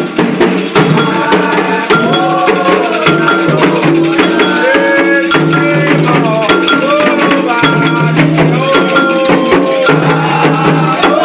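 Voices singing an Afro-Brazilian chant for the orixás over hand percussion, with sharp drum and rattle strikes keeping the beat.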